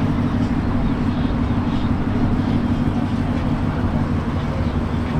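Steady low vehicle rumble, without a break or change.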